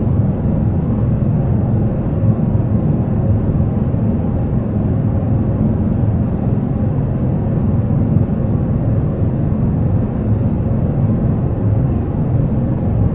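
Steady jet airliner cabin noise in flight: an even low rumble and rush of air that does not change.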